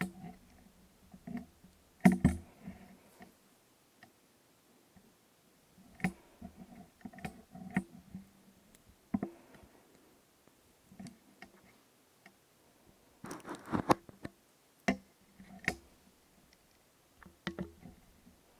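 Crystal tubes tapped and handled close to the microphone: scattered sharp clicks and light taps with soft handling noise between them, and a quick flurry of taps a little past the middle.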